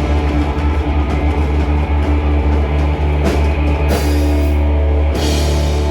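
Live rock band playing loud: guitar and bass over a drum kit, with cymbal crashes about three, four and five seconds in.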